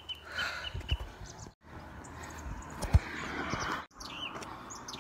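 Small birds chirping in short high notes over a steady hiss, with a few low thumps, the loudest about three seconds in. The sound cuts out completely for a moment twice.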